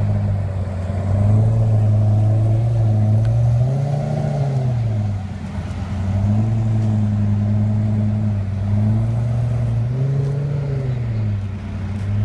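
Car engine running with a steady low drone; the revs swell up and fall back a few times, most clearly about four seconds in and again near the end.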